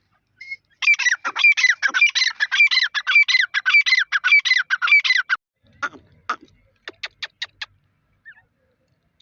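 Teetar (partridge) calling: a rapid, loud run of sharp repeated notes, about eight a second, lasting some four seconds, followed by a few separate short clicky notes.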